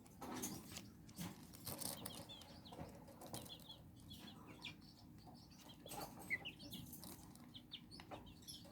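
Young chicks peeping faintly, short chirps scattered throughout, with soft clicks and rustles of the birds moving about in the brooder.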